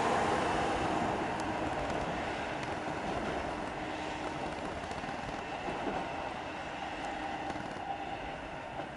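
PESA Dart electric multiple unit running away along the track, its rumble fading steadily as it draws off.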